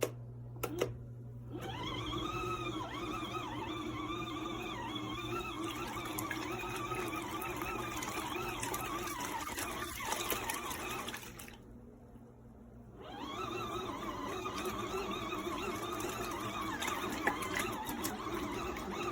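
Portable mini washing machine running its wash cycle: the motor whirs and churns the water, its pitch wavering up and down. It stops for about a second and a half about eleven seconds in, then starts again.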